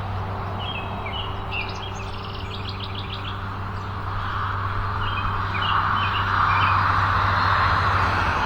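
Birds chirping in two short runs of quick chirps, over a steady low hum and a rush of wind noise that grows louder about halfway through.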